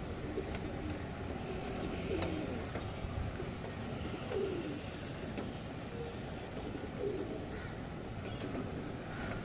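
Steady hiss of rain and wind with a pigeon cooing several times, low calls that bend down in pitch. A single sharp click about two seconds in.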